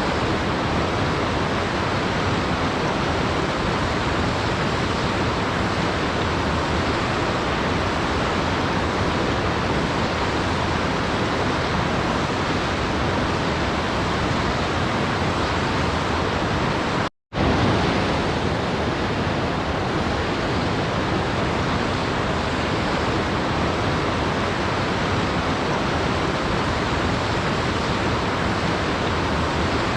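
Steady rushing of a waterfall, an even hiss of falling water. It cuts out for a split second about halfway through, then resumes.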